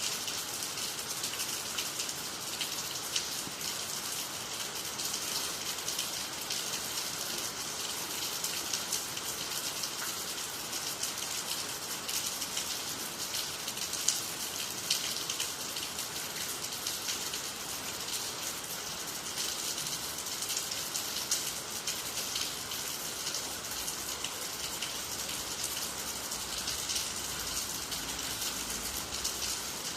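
Steady rain falling on water, trees and the ground, a dense even hiss of drops with scattered louder drop hits.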